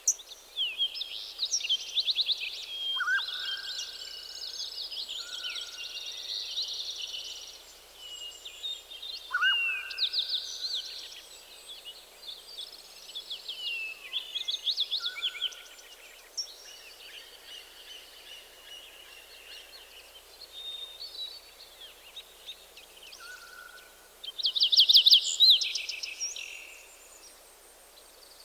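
Several songbirds singing at once, a morning chorus of quick high trills and chirps overlapping with a few short lower whistles. A loud burst of song comes near the end.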